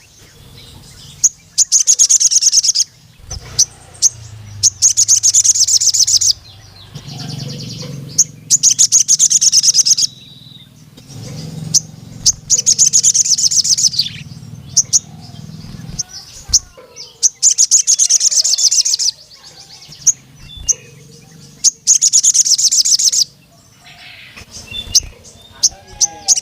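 Male crimson sunbird (sogon) calling. It gives repeated bursts of rapid, high-pitched chirping trills, each about a second long, about every two seconds.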